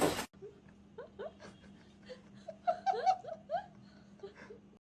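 A loud rush of noise cuts off abruptly just after the start. Then a person laughs softly in a run of short, rising giggles over a faint steady hum.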